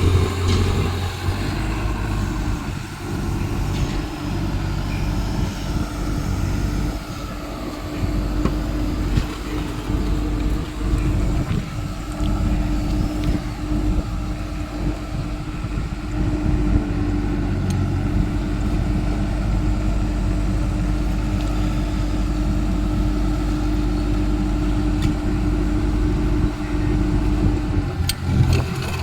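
Caterpillar excavator's diesel engine running steadily, with a steady whine held over it that stops near the end.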